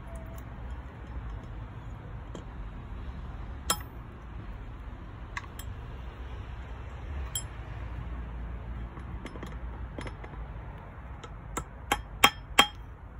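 Hammer strikes on metal with a sharp, ringing clink: a few scattered taps, then four quick, louder strikes near the end, over a low steady hum.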